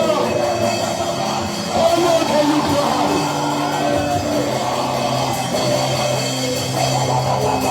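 Loud live worship band music with drums, electric guitar and sustained keyboard-like chords, with some singing or voices over it.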